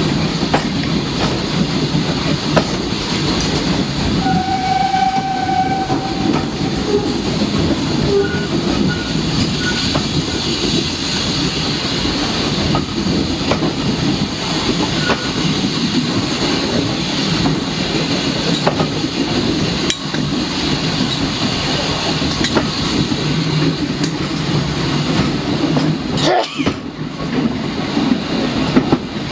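Steam-hauled heritage train running along the line, heard from aboard: a steady rumble of wheels on rail with light clicking at the rail joints. A short high tone sounds about five seconds in, and the noise briefly dips near the end.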